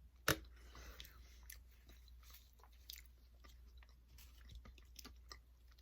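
A person chewing food close to the microphone, with scattered small crunching clicks and one sharper click about a third of a second in.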